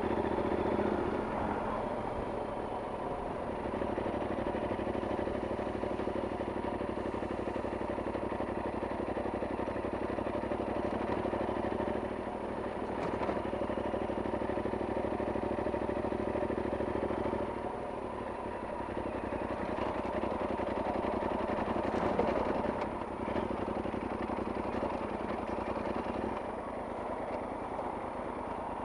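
Yamaha Super Tenere XT1200Z's parallel-twin engine running under way, a steady note that shifts several times as the rider changes speed or gear.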